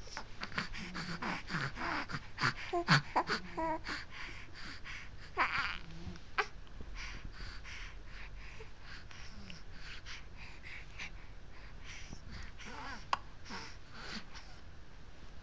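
A baby's small vocal sounds: short squeaks and grunts over the first few seconds and a breathy burst about five seconds in, then quieter, breathy sounds with a few faint clicks.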